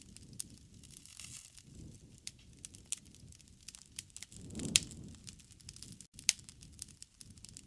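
Wood fire crackling, with scattered sharp pops. A low rush of flame swells about four and a half seconds in, around the loudest snap.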